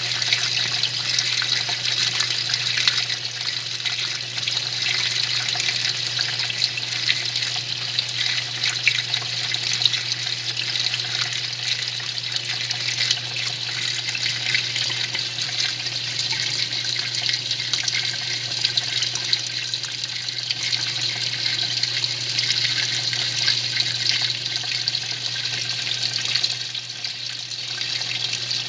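Semi-automatic 'faz tudo' washing machine running, its water churning and splashing continuously over a steady low motor hum.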